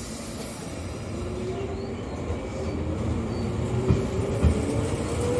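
Tobu 8000-series electric train pulling away: its traction motor whine rises steadily in pitch as it accelerates, with a few wheel clacks over rail joints in the second half.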